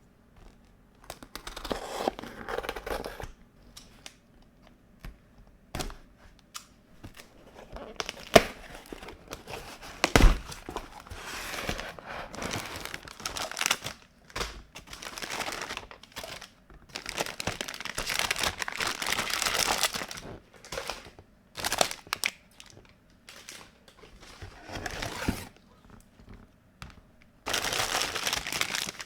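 Plastic packaging crinkling and tearing in irregular bursts as a toy kitchen playset is unboxed, with a few sharp clicks or knocks of toy pieces, the loudest about 8 and 10 seconds in.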